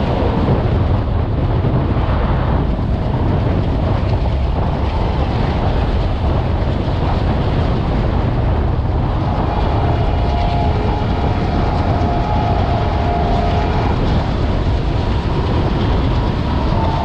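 A train running at speed on the rails: a loud, steady rumble of wheels on track with rushing noise over it.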